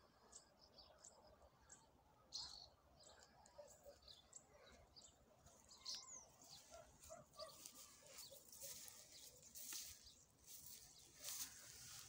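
Faint birds chirping: many short, high calls scattered through, with a few brief hissy rustles in the second half.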